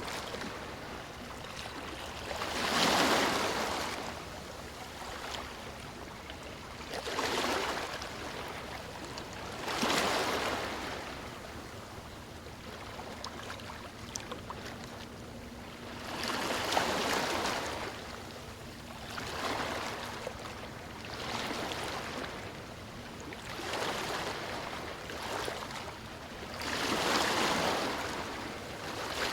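Sea waves breaking on a beach, one after another: a hissing wash swells and fades about every three to seven seconds, with the loudest break a few seconds in.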